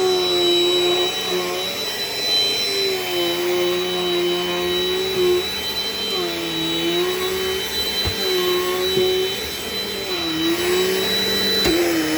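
Dirt Devil Dynamite Plus vacuum cleaner running steadily with a high motor whine. Its pitch sags and recovers every second or two, and there are a couple of light knocks.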